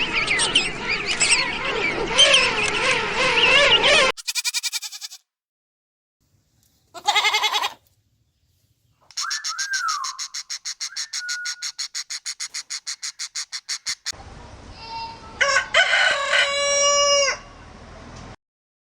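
A string of separate animal and bird calls, cut one after another with silent gaps. It opens with a dense chorus of wavering calls for about four seconds, then a fast-pulsed burst, a fast, even pulsing trill lasting about five seconds, and near the end a drawn-out call with several steady pitches.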